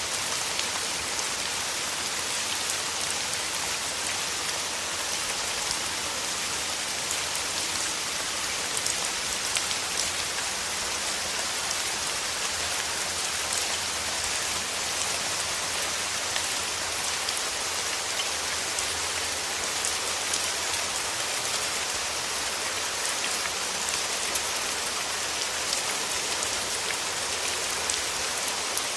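Steady rain with many individual drop patters, a dense even hiss strongest in the upper range.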